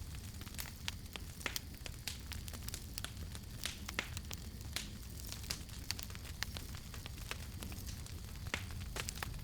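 Campfire crackling, with sharp irregular pops over a steady low rumble.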